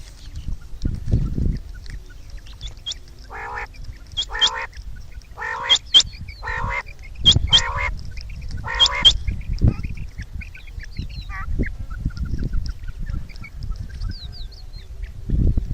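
Quail calling: a series of about seven harsh, rasping calls, each about half a second long, in the middle stretch. Several are topped by a sharp high chirp, and the calling stops for the last few seconds.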